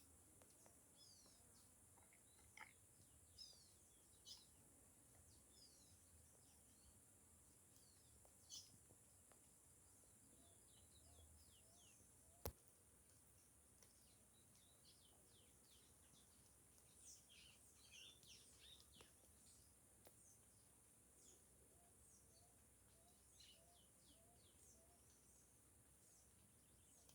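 Faint, scattered bird chirps and short high downward-sweeping calls in caatinga scrub, busiest about two-thirds of the way through, over a steady high hiss. One sharp click about halfway.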